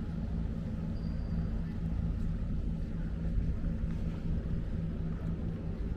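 An engine running steadily: a low rumble with a steady hum, no revving.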